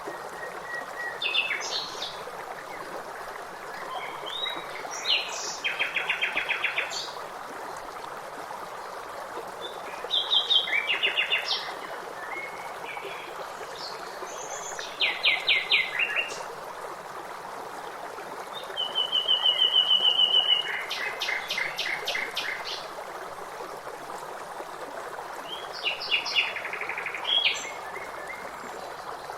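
Songbirds singing in short phrases of rapid trills and chirps every few seconds over a steady rush of flowing water.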